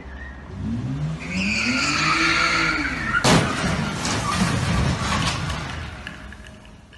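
A car engine note rising and falling with tyres squealing, then a loud crash impact about three seconds in, followed by clattering that fades away.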